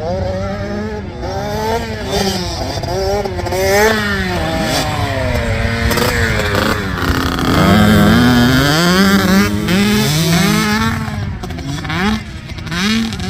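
Several motocross bikes revving hard as they pass. Their engine pitch climbs and drops over and over as they shift and go over the track, loudest about eight seconds in.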